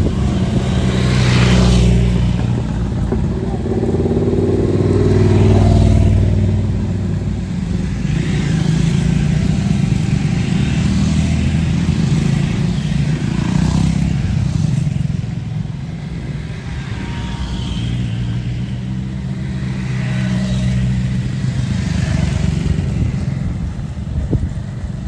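Triumph Speed 400's single-cylinder engine running on the move, its note rising and falling as the bike accelerates and eases off, loudest twice in the first several seconds.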